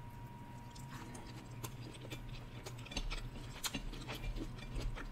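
Close-miked mouth chewing a bite of fried food: soft, irregular wet clicks and light crunches, getting a little louder from about three seconds in.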